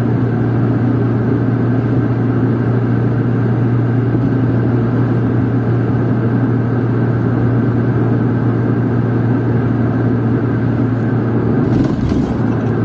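Steady drone of a car being driven, heard from inside the cabin: engine and tyre noise holding an even level. A brief crackle comes near the end.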